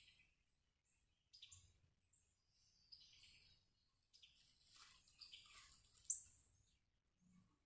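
Faint bird song: several short, high chirping phrases, the loudest about six seconds in.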